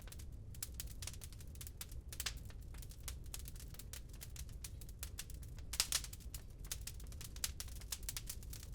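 Wood fire crackling: a steady run of irregular small pops and snaps, with a louder cluster of pops about six seconds in, over a low steady rumble.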